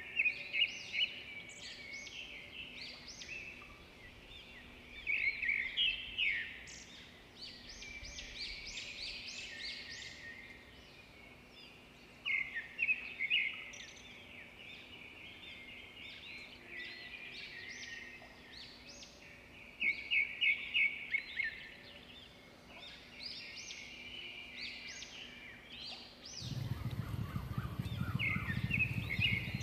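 Birds chirping and calling, with bursts of rapid chattering notes every six or seven seconds. Near the end, a louder low rushing noise comes in.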